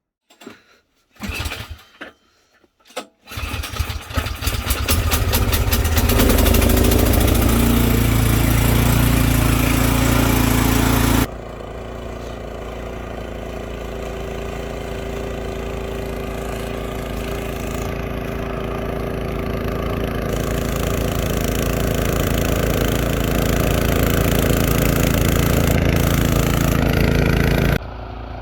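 An engine cranked in a few short bursts, catching after about three seconds and then running steadily. Its level drops suddenly near the middle and again just before the end.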